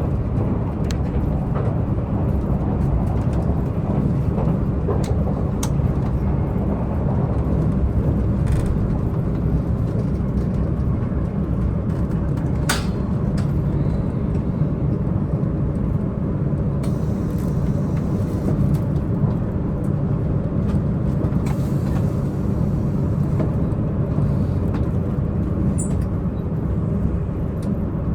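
Diesel multiple-unit express train heard from inside the passenger car: the underfloor diesel engine runs steadily under a low drone of wheel and rail rumble at speed. A single sharp click comes about 13 seconds in.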